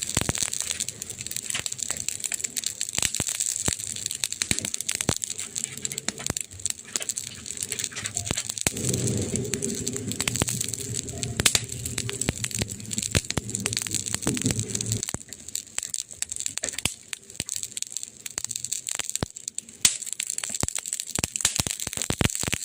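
Burning wood crackling and popping in irregular quick snaps over a steady hiss. A low hum joins for about six seconds midway.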